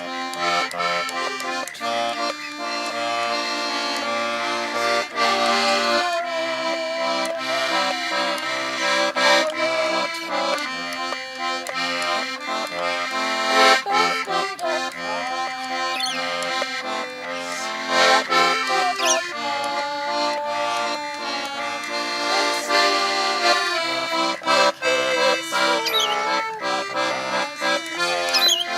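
Accordion playing a melody over steady held chords, with no singing.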